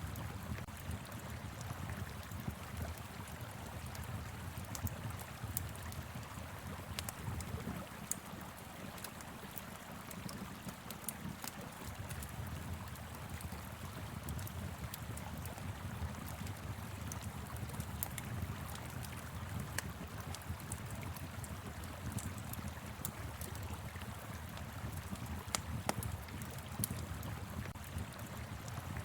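Wood fire crackling with scattered sharp pops over the steady rush of a flowing river.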